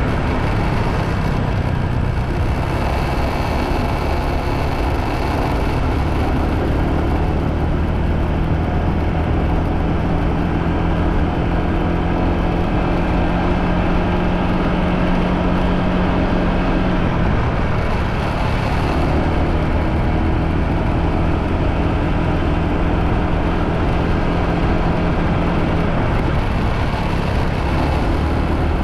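Motorbike engine running steadily while riding, under heavy wind and road noise; the engine note changes about two-thirds of the way through.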